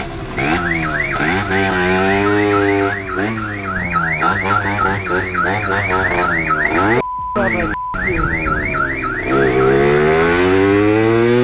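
Car alarm sounding a fast, repeating rising whoop, about three sweeps a second, with a pitched sound rising and falling underneath. About seven seconds in, two short censor bleeps cut through.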